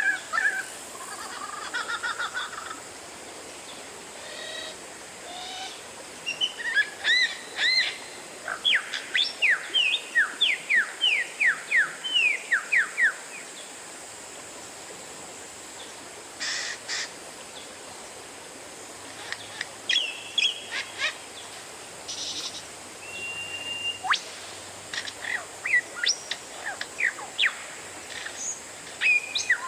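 Oriental magpie-robin (kacer) singing: phrases of loud whistled and sweeping chirped notes with pauses between them, including a fast run of about a dozen quick descending sweeps about a third of the way in, over a faint steady hiss.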